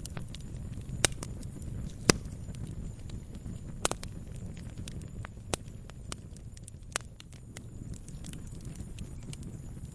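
Campfire crackling: burning wood giving off irregular sharp pops and snaps, a few louder ones standing out, over a low steady rumble.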